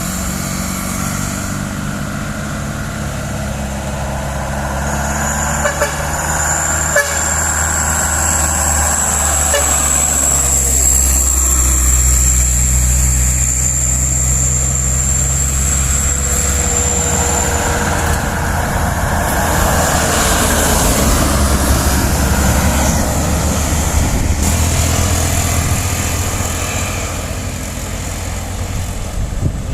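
Loaded sugarcane trucks' diesel engines running under load on an uphill climb, with a horn sounding. A thin, high, steady whine runs through the middle.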